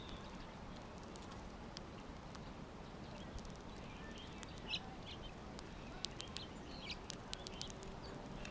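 Faint short chirps from songbirds at a backyard feeder, a few brief calls scattered through, with small sharp clicks in between.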